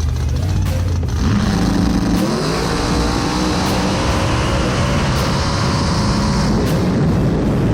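Drag race car engine running at high revs. Its pitch climbs about a second in, then holds fairly steady for several seconds.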